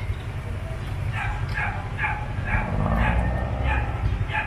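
A small dog yapping repeatedly, short barks about two a second, over a steady low rumble of idling engines.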